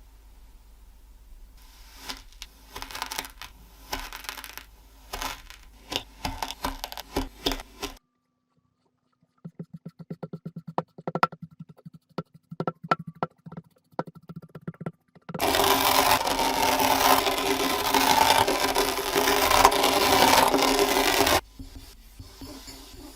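Kinetic sand being cut, pressed and crumbled in a run of short clips: scattered soft crackles and taps, then a stretch of sharp clicks, then about six seconds of loud, dense scraping and crunching before it drops back to faint crackling.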